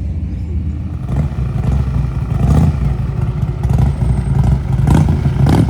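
Motorcycle engine running with a low rumble, growing louder from about a second in. A couple of sharp clicks near the end.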